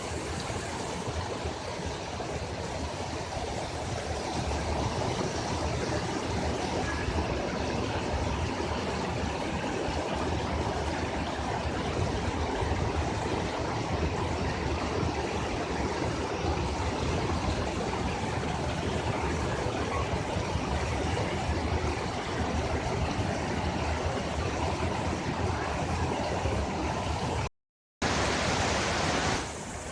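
Steady rushing of a waterfall's falling water. Near the end the sound cuts out for a moment, then comes back brighter and hissier for about a second.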